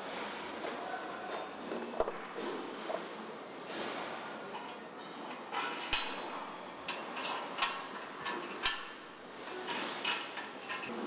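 Truck assembly-line factory noise: a steady hall din with scattered sharp metallic clanks and clicks from tools and parts, the loudest a few seconds apart.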